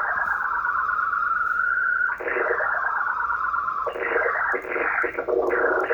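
Homebrew VFO's signal heard as a radio whistle tone whose pitch drifts, swoops and warbles as the loosely mounted coil bounces and pulls the oscillator's frequency. It glides slowly at first, swoops down and back up about two seconds in, and from about four seconds wavers rapidly and choppily.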